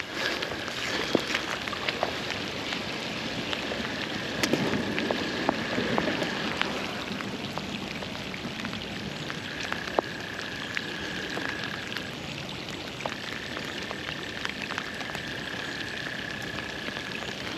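Steady rain pattering, with many individual drops ticking sharply. A long, steady, high-pitched trill is held three times over it, for several seconds each.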